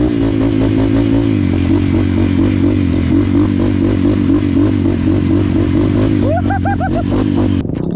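Off-road trail motorcycle engine running at a fairly steady pitch, with a short run of quick rising-and-falling notes near the end.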